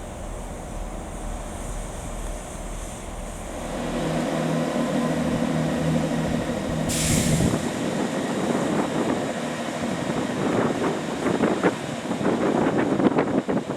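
A train passing through the station. A steady engine hum starts about four seconds in, a short burst of hiss comes about halfway, then quick clattering of wheels over the rails builds toward the end.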